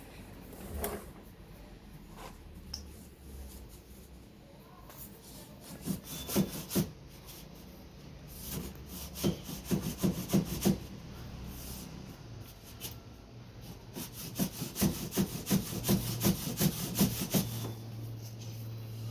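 Rapid scraping and rubbing strokes, about four a second, in three bursts with quieter rubbing between them: a second pipe being worked back and forth inside a washing machine's drain hose to push out the socks blocking it.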